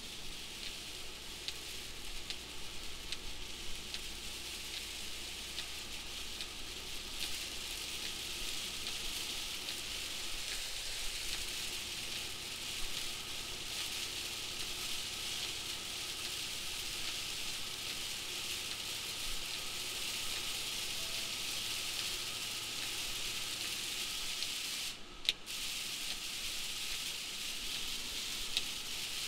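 Heavy rain hitting a moving vehicle's windshield and roof, a steady hiss mixed with tyre spray off the flooded highway, over a faint low engine drone. The hiss drops out for a moment near the end.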